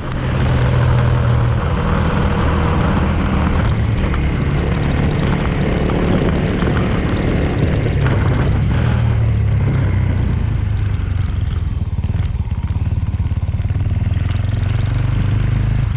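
Small Suzuki Thunder motorcycle riding along, its engine note rising and falling with the throttle and gear changes, with steady road and wind noise.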